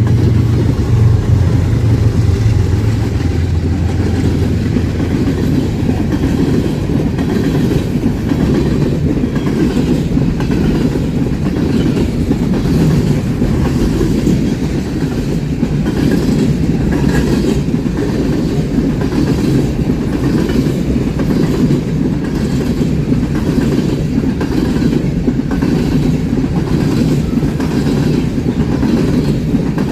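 Train rolling past, a steady rumble of railroad cars with wheels clicking over rail joints. A low hum in the first few seconds fades away.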